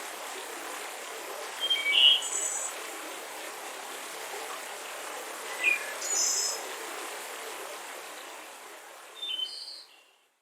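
Mountain river running in a steady rush, with birds chirping in short calls about two, six and nine seconds in. All sound fades out near the end.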